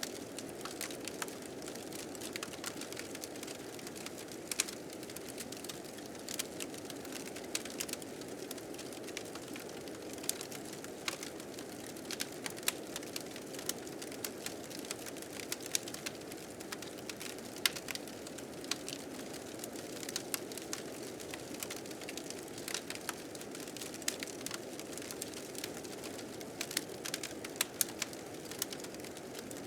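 Wood fire crackling, with many small irregular pops and snaps, over the steady rushing of blizzard wind.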